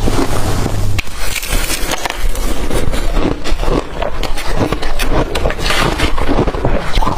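Blender-crushed ice being bitten and chewed up close, a dense run of irregular crunches and crackles.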